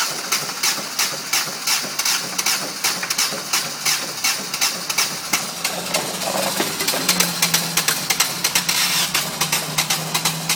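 1998 Ford Focus's 1.6-litre Zetec-SE (FYDA) four-cylinder engine idling with a sharp, evenly repeating knock several times a second. The owner suspects a valve seat or a connecting rod bearing.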